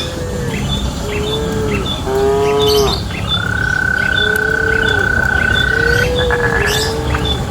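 Cattle mooing repeatedly in short, rising-and-falling calls, one after another. A bird chirps steadily in a quick repeating pattern behind them, and a long steady high tone sounds for about three seconds in the middle.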